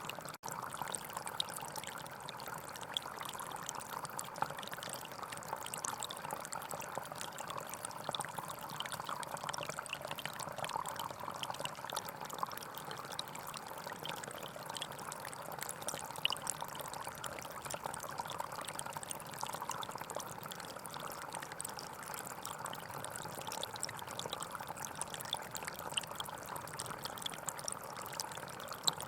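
Small forest stream flowing steadily over stones, a continuous burble with small splashes scattered through it.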